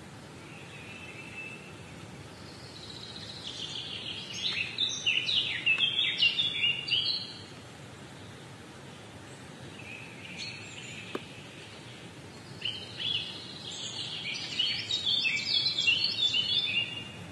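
A songbird singing two long phrases of rapid, varied chirping notes, each about four seconds, over a steady background hiss.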